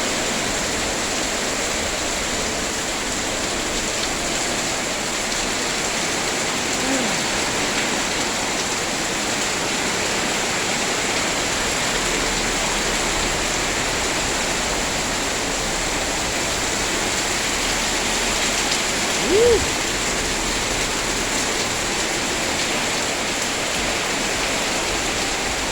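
Heavy rain pouring down steadily, a loud even hiss, with one short brief sound about three-quarters of the way through.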